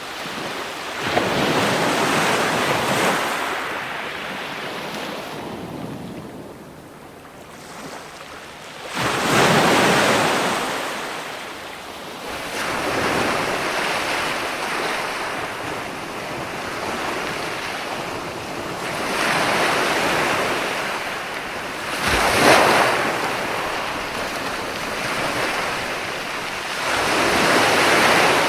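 Ocean waves breaking and washing ashore in repeated surges that swell and fade every few seconds, the sharpest break about three quarters of the way through, with wind noise on the microphone.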